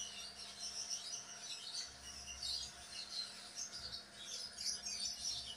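Birds chirping: many short high-pitched chirps overlapping, over a faint steady hum.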